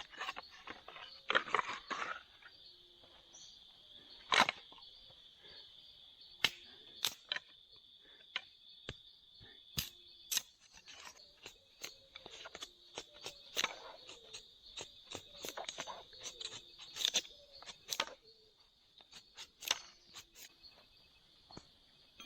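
Steady high-pitched insect drone, with irregular sharp clicks, knocks and rustles throughout. The loudest knock comes about four and a half seconds in.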